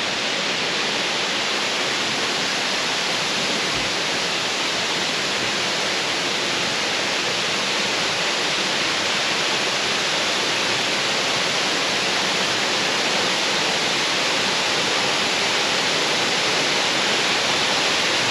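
Steady rush of a waterfall: an even hiss of falling and splashing water, without pause, growing slightly louder towards the end.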